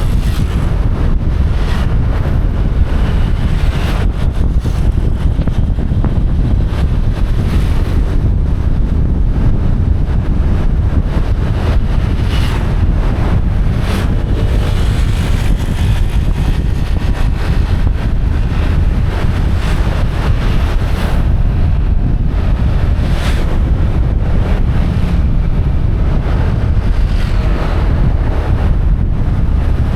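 Wind buffeting the microphone of a moving motorbike: a loud, steady low rumble that swamps the engine and road noise, with a few brief gusts.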